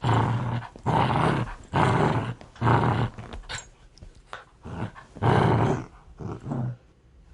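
Dog growling aggressively in a string of short, harsh bursts, each about half a second long with brief gaps, a pause in the middle and two more growls near the end.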